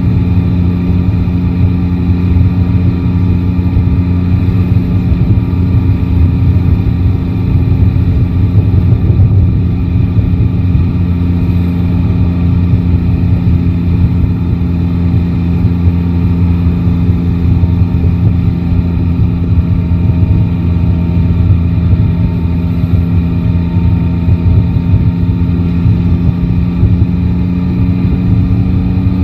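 Yamaha Tracer 9 GT's inline three-cylinder engine running at a steady, nearly unchanging pitch, with a low rumble underneath.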